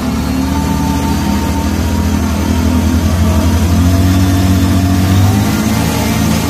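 Two motorcycle engines held at high revs under load, rear wheels spinning in the dirt as the bikes pull in opposite directions on ropes held by a man standing between them. The engine note stays steady, shifting a little about five seconds in.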